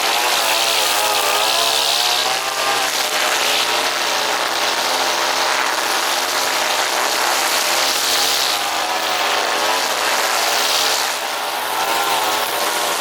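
Petrol brush cutter running under load while cutting grass. The engine note keeps rising and falling as the throttle is worked.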